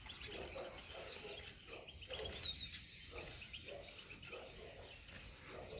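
Faint chirps and short calls of small songbirds, with a brief falling note about halfway through and a thin, steady whistled note near the end.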